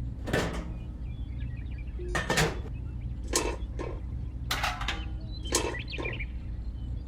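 A series of short, irregular knocks and scrapes, about eight in all, like small hard objects being handled, over a steady low hum.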